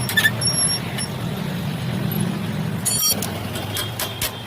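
A steady low engine-like hum with a few short, sharp metallic clinks, one of them ringing briefly about three seconds in.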